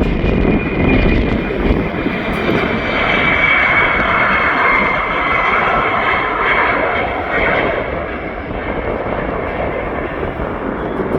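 Jet airliner passing close by: loud engine roar with a high steady whine on top, strongest midway and easing off near the end.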